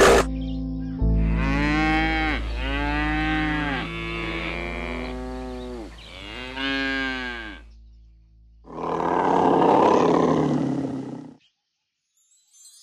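A large animal calling: several pitched calls, each rising then falling in pitch, over a low steady hum. Then a harsh, noisy bellow of about two and a half seconds that cuts off suddenly.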